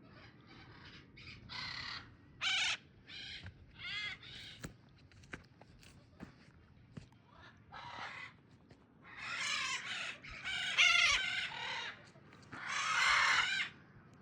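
Macaws squawking: a string of short, harsh calls, then three longer, louder screeches in the last five seconds.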